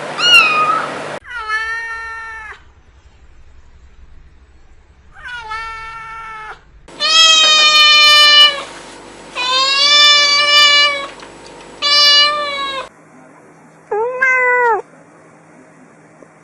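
A cat meowing repeatedly in long, drawn-out calls, about seven in all, across several abruptly spliced clips; the loudest meows come in the middle.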